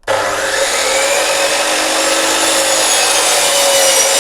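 Electric mitre saw cross-cutting a 4x1 softwood board to length, the blade's pitch sagging slightly under load mid-cut and recovering.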